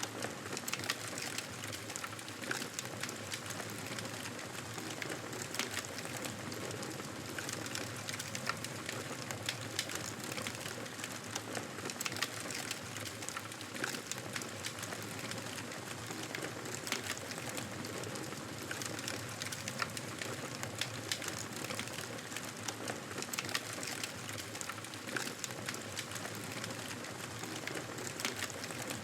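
Fire burning in a fireplace: a steady hiss of flames with frequent small crackles and pops throughout.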